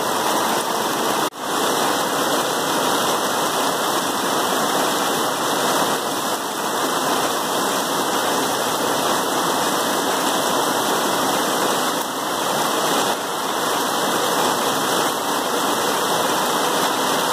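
Heavy rain pouring down as a steady, dense hiss, cutting out for a moment a little over a second in.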